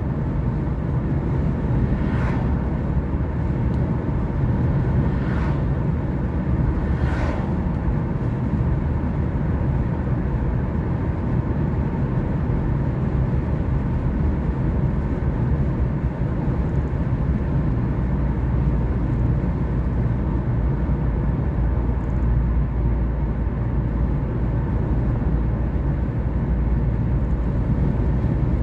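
A car driving, heard from inside: a steady mix of engine and road noise, mostly a low rumble, with a few faint brief sounds in the first several seconds.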